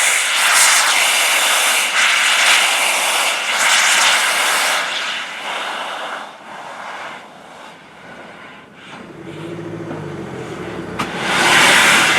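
Steam hissing loudly from the LNER Peppercorn A1 Pacific locomotive 60163 Tornado, in surges that die away in the middle. A low hum comes up about nine seconds in, and the hiss bursts out loud again near the end.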